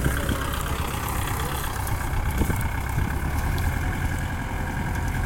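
Kubota farm tractor's diesel engine running steadily.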